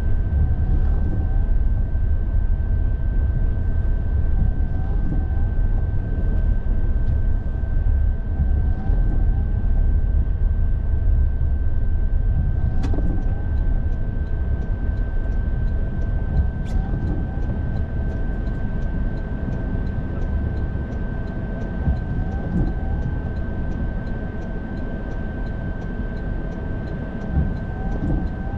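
Car driving along: a steady low rumble of engine and road noise, with a thin steady high-pitched tone above it and a couple of faint clicks.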